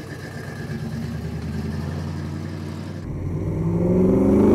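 1967 Chevrolet Camaro's fuel-injected V8 running steadily, then revving up, climbing in pitch and getting louder in the last second or so.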